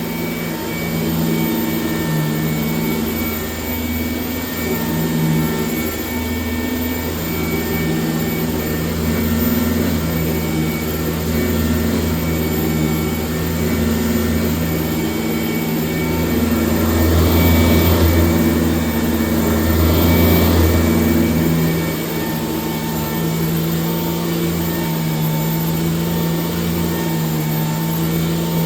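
1996 Sanitaire S663 upright vacuum cleaner running steadily while vacuuming, its motor hum wavering in level as it is worked, with two louder swells about two-thirds of the way through.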